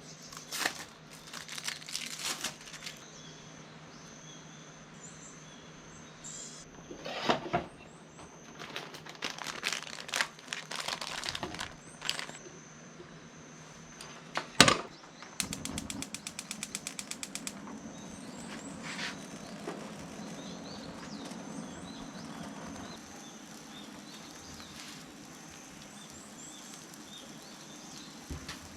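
Cooking gear being handled: scattered clicks and knocks, the sharpest about halfway through. Right after it comes a quick, even run of ticks and then several seconds of a low rushing noise.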